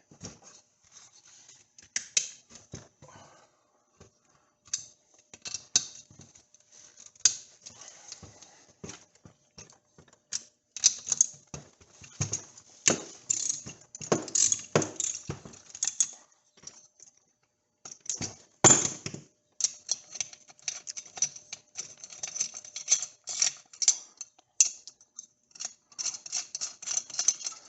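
Irregular metallic clicks and clinks of hand tools and small metal parts as an 80cc motorized-bicycle engine is taken apart, with a few louder knocks and short runs of quick clicking.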